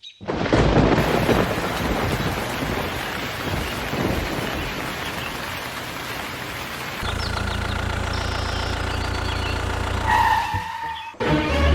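A steady rushing noise like rain for about seven seconds, then a steady low engine-like hum that cuts off abruptly near the end.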